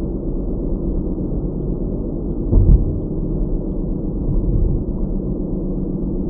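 Steady low road and engine rumble of a car driving, picked up by a dash cam's microphone, with one louder low thump about two and a half seconds in.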